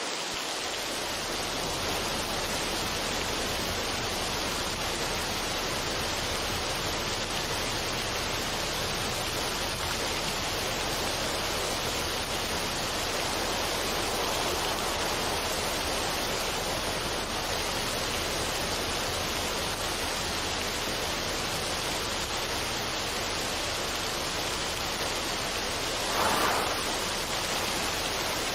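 Steady, even rushing noise with no melody, of the water-or-rain kind, with one short louder swell near the end.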